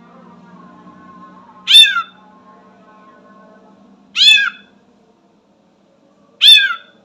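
Sooty-headed bulbul mimicking a cat's meow: three loud meow-like calls about two and a half seconds apart, each falling in pitch.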